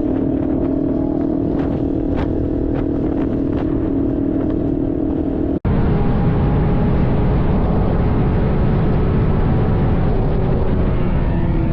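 Vehicle engine running steadily with road noise, a few sharp ticks over it. About five and a half seconds in a sudden cut switches to a rougher engine-and-road sound whose pitch glides up and down near the end.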